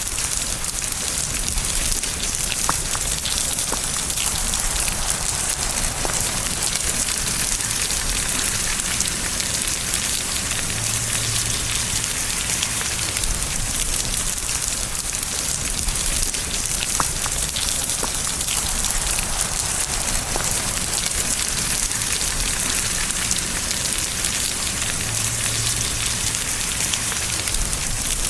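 Steady rain falling, an even wash of rain with scattered individual drop ticks.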